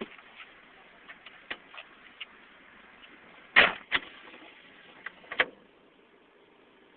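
Handling noises inside a parked car: scattered light clicks, then two loud knocks about three and a half seconds in and another sharp knock a little later.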